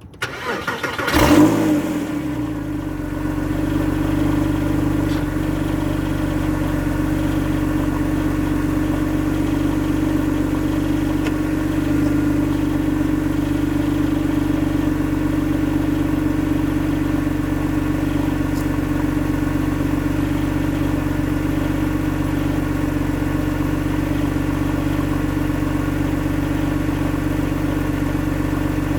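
Porsche 911 flat-six cold start: the starter cranks briefly, the engine catches about a second in with a short flare of revs, then settles into a steady cold idle.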